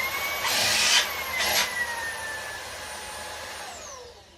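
Ryobi One+ cordless hand vacuum's motor running: a high whine that has just spun up, its pitch slowly sagging, with two short louder rushes of air about half a second and a second and a half in, then winding down with a falling whine near the end. The battery on it is not fully charged.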